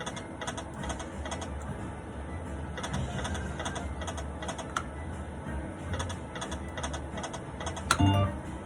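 Poker machine sounds: a run of quick, irregular clicks and ticks over a steady low hum, with a short, louder electronic sound near the end.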